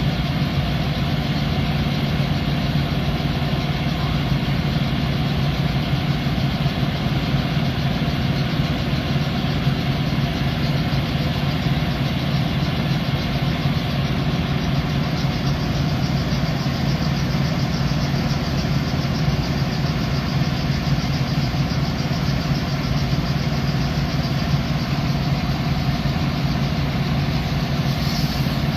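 Truck engine idling steadily, a constant low drone with no change in speed.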